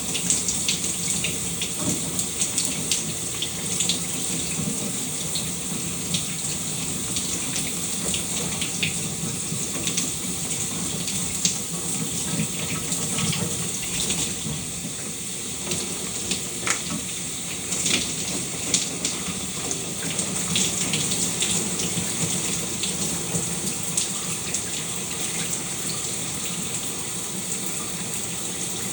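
Shower running steadily, water spraying and splashing with frequent small, irregular spatters.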